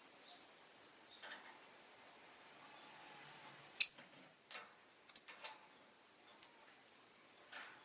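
Rosy-faced lovebirds giving short, sharp chirps every second or so, with one loud, shrill call about four seconds in.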